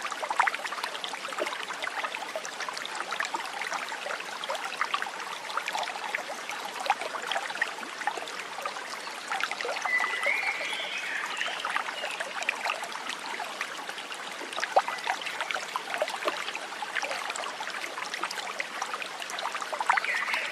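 Flowing water, a steady rushing and trickling. A short bird call comes about halfway through and again at the very end.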